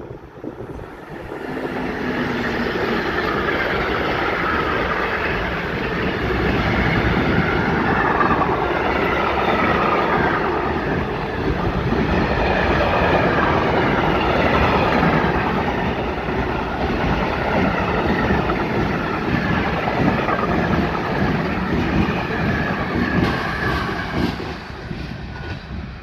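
Freight train rolling past at close range, its wagon wheels clattering steadily over the rail joints. It builds up over the first couple of seconds and fades near the end as the last wagons go by.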